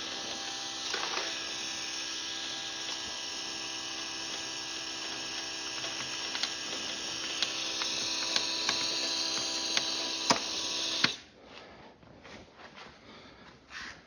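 Engine being cranked over by its starter motor without firing, a steady mechanical whir with a few sharp clicks, cutting off suddenly about eleven seconds in. The engine will not catch, which the owner puts down to no spark and suspects a dead crank position sensor.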